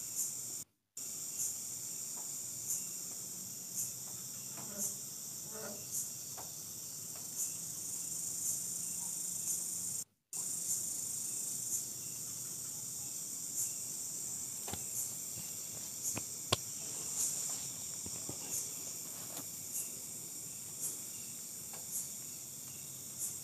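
Night insects, crickets among them, chirping: a steady high shrill with a regular pulse about once a second. The sound cuts out completely twice for a moment, and there is one sharp click about two-thirds of the way in.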